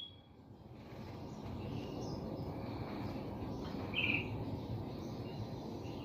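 Orange-headed thrush giving a few soft, scattered short notes, one louder note about four seconds in, over steady low background noise.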